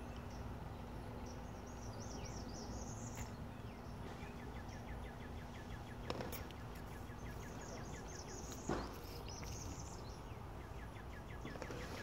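Quiet outdoor background noise with a small bird chirping in quick runs of short repeated notes, and three sharp clicks.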